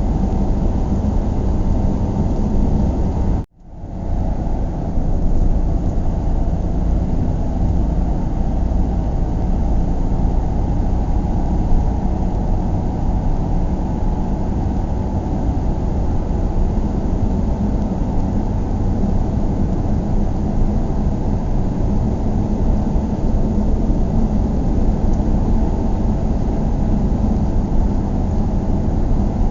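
Steady low rumble of road and engine noise inside a moving car. About three and a half seconds in, the sound cuts out for a moment, then swells back within a second.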